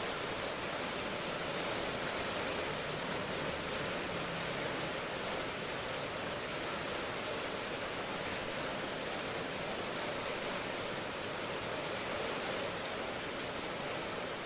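Steady rain ambience: an even hiss of rainfall with no distinct drops or thunder.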